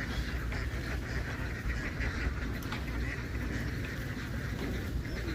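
A large flock of domestic ducks quacking all at once, a dense, continuous chatter of many overlapping calls over a steady low rumble.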